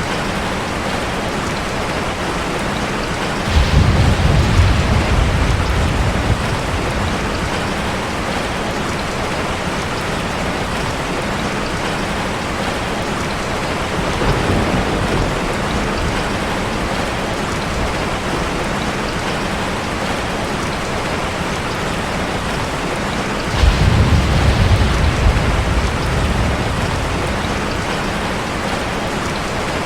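Steady rushing of falling water from a waterfall. Twice, about a sixth and three-quarters of the way through, a deep rumble rises suddenly and fades over about three seconds, with a fainter one midway.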